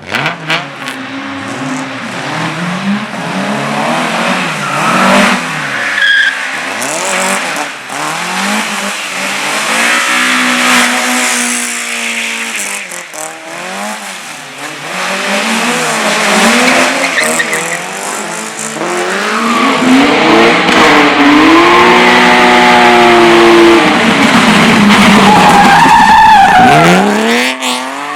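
Race car engines revving hard, the pitch climbing and falling again and again with throttle and gear changes, while the tyres squeal and skid. It is loudest in the last third, where one engine note is held high before falling away near the end.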